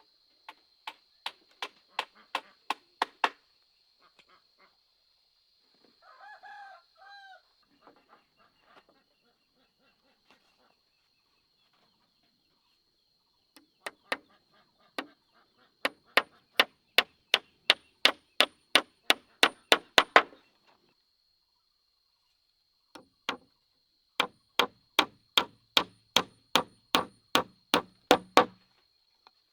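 Three runs of sharp tool strikes at about three a second, blows of a hand tool on wood. About six seconds in, between runs, a bird gives two short calls, over a steady high-pitched drone.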